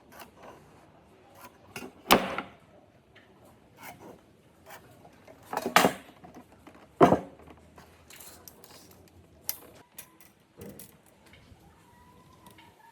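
Scattered knocks and clatters of hard objects being handled and set down, the loudest about two, six and seven seconds in.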